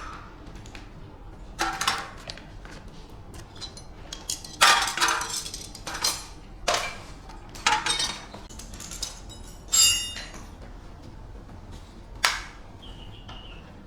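A series of sharp metallic clinks and knocks, about eight spread irregularly, as of metal tools or parts being set down and tapped. One knock near ten seconds rings on briefly.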